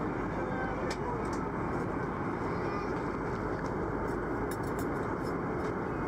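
Steady in-flight cabin noise of an Airbus A330-200 airliner, an even rush of engines and airflow, with a few faint clicks around one second in and again about four to five seconds in.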